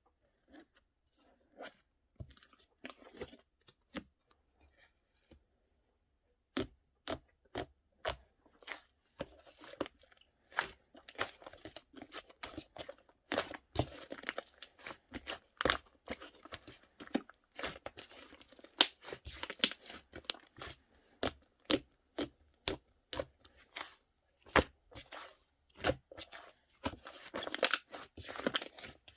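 Slime being squished and stretched by hand, giving quick sticky clicks and pops. They are sparse and faint at first and become a dense, continuous run of pops from about six and a half seconds in.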